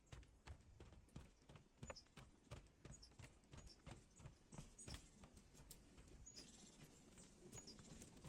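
Faint, irregular clicks and taps, two or three a second, over quiet outdoor background, with a few very brief high chirps.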